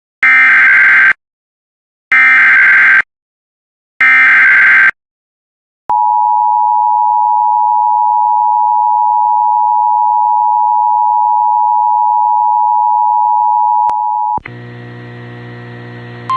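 Emergency Alert System SAME header: three loud, screechy one-second data bursts about two seconds apart, followed by the EAS two-tone attention signal held steady for about eight seconds. A quieter steady buzz with several pitches starts just after the tone cuts off.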